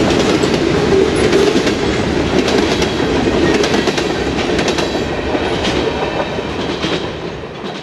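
Train cars rolling past, steel wheels clicking over the rail joints in a steady rumble that slowly eases off near the end.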